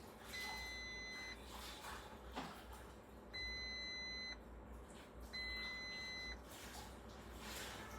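Electronic warning beeps from the car's electrics as a low 12-volt battery is being charged or jumped. Each beep is a steady tone about a second long, heard three times, two to three seconds apart.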